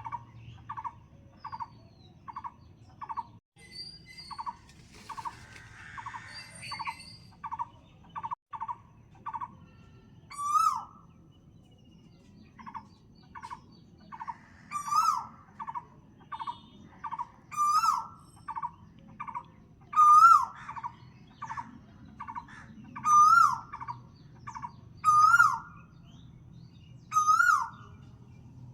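Birds calling: a steady run of short repeated notes, about two a second. From about ten seconds in, a louder call comes every two to three seconds, its pitch rising then dropping.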